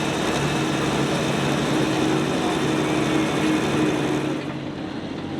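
Loud engine of a pulling truck or tractor running steadily, easing off about four seconds in.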